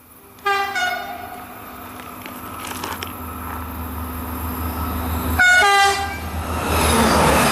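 SNCF X 72500 diesel railcar sounding its horn twice: a blast about half a second in and a shorter one about five seconds later. Between and after the blasts, the rumble of the approaching train grows steadily louder.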